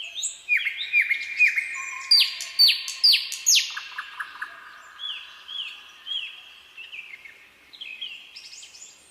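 Several birds singing at once, overlapping. A run of sharp, down-slurred whistled notes is loudest about two to four seconds in, followed by softer repeated calls.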